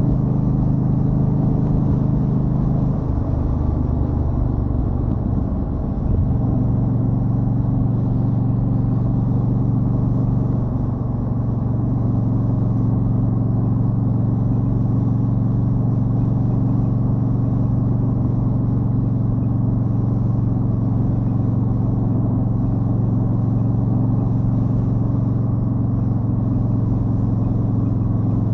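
2013 Yamaha Stryker's V-twin engine running steadily under way, its note changing between about three and six seconds in, then holding steady.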